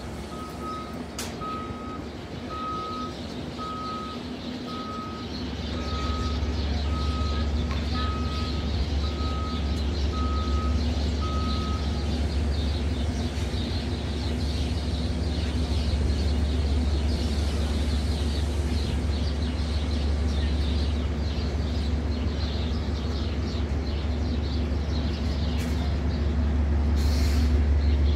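Low steady rumble of a Metro-North train standing at the platform, growing louder about five seconds in. Over it, for the first twelve seconds, a single-pitch warning beep repeats about once a second.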